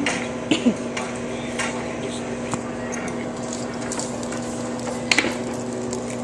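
A few sharp metallic clinks and rattles, a pair about half a second in and another little cluster about five seconds in, over a steady hum.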